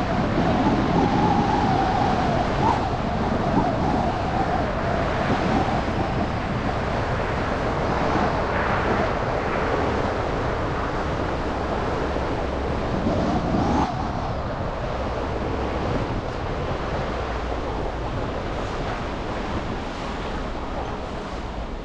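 City traffic on wet, slushy streets: a steady hiss of tyres on wet pavement under running engines, with a wavering vehicle tone in the first few seconds and again briefly about 13 seconds in, easing slowly quieter toward the end.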